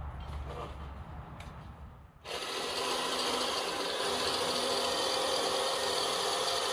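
Power drill running steadily for about five seconds, starting a couple of seconds in and stopping abruptly, as a small screw is driven into the wooden side of the hive.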